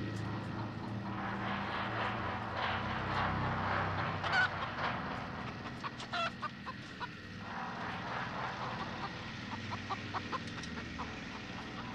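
Bird calls, with two short pitched calls about four and six seconds in, over a steady low hum and scattered light ticks.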